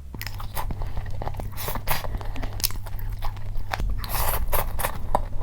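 Close-up mouth sounds of a person chewing and biting a mouthful of food: many short, irregular wet clicks and smacks, over a steady low hum.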